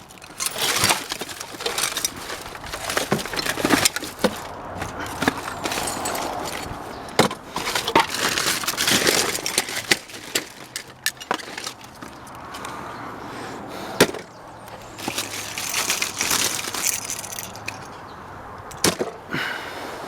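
Rummaging through a dumpster of scrap: debris clattering, cracking and scraping in irregular spells, with scattered sharp knocks.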